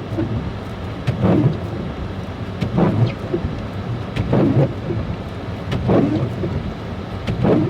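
Car windshield wipers sweeping, one swishing stroke about every one and a half seconds, over the steady low rumble inside the car's cabin.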